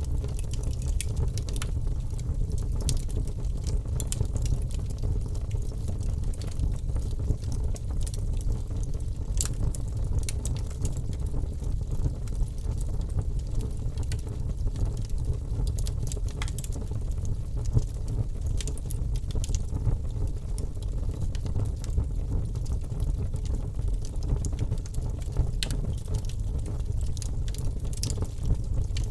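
Wood fire burning in a fireplace: a steady low rumble of flame with irregular sharp crackles and pops.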